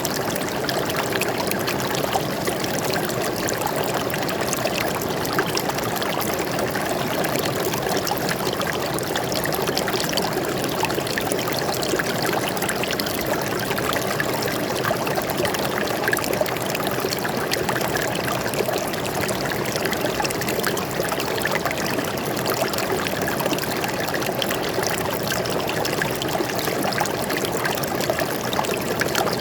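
Stream water flowing and splashing steadily over rocks, a constant burbling rush with fine trickling detail.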